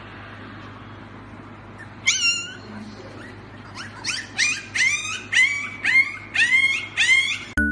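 Siberian husky puppy giving one high yelp, then from about four seconds in a quick run of short high yelps, about two a second, each sliding down in pitch.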